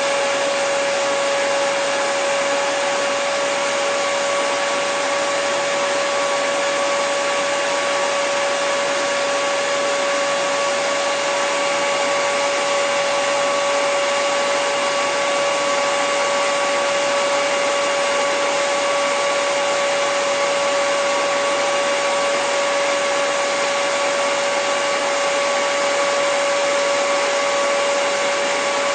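Electric hairdryer running continuously: a steady rush of air with a constant motor whine, unchanging in level and pitch.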